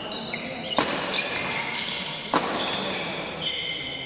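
Sharp racket hits in a doubles rally, two strikes about a second and a half apart, with short high-pitched shoe squeaks on the court between and after them.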